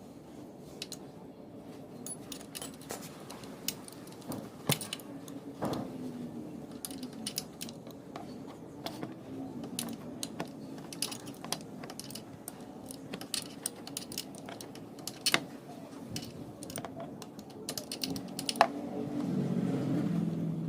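Irregular light clicks and metallic taps of hand tools working on a motorcycle engine, with a louder low sound building near the end.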